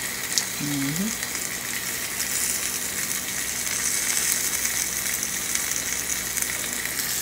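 Salmon fillet sizzling steadily in a hot pan on the stove, a constant high frying hiss.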